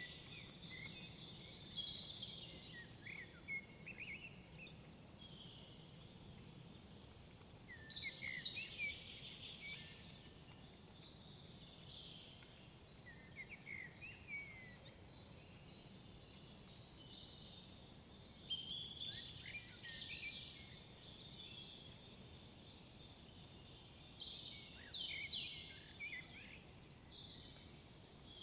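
Woodland songbirds singing: short whistled and trilled song phrases that come back every five or six seconds, each ending in a high, fast trill, over a faint low background rumble.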